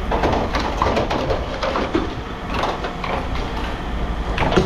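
Scrap metal pieces clanking and knocking irregularly as they are handled and dropped, over a steady low rumble.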